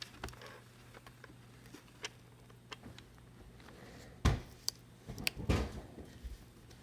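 Light clicks and taps of small repair tools against the phone's internal parts during disassembly, a few faint ones early and a louder cluster about four to six seconds in, over a faint steady hum.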